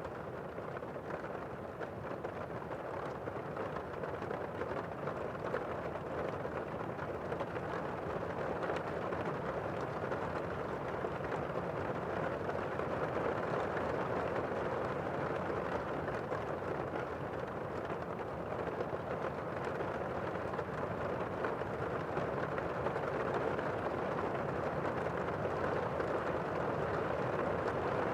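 Steady rain, an even rushing hiss with no separate drops or claps standing out, slowly growing louder.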